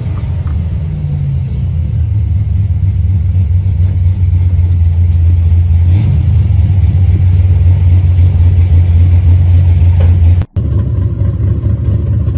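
Gasser's dual-four-barrel V8 engine running under steady throttle as the car cruises, a loud deep drone. About ten and a half seconds in the sound cuts out briefly and a second car's engine rumbles on.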